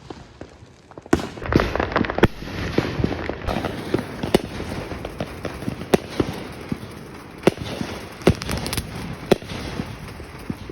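Fireworks going off: a steady crackle from about a second in, with sharp bangs every second or two.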